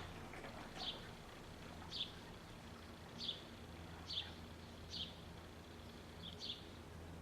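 A bird chirping: one short, high, slightly falling note repeated about once a second, over a faint steady low hum.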